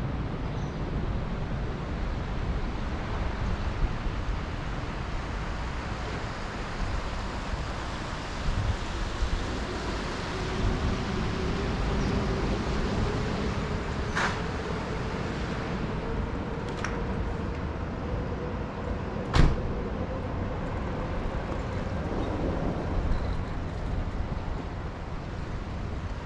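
City traffic and wind noise heard from a moving bicycle, with a vehicle's engine hum passing through the middle. Three sharp clicks stand out, the last one the loudest.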